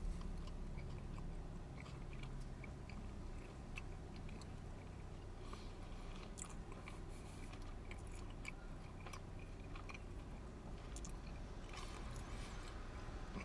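A man chewing a mouthful of soft bread roll topped with popcorn chicken and barbecue sauce, faint, with scattered small wet mouth clicks.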